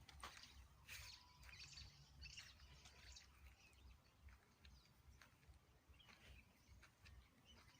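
Faint outdoor ambience: scattered short bird chirps and calls, busiest in the first few seconds, over a low rumble.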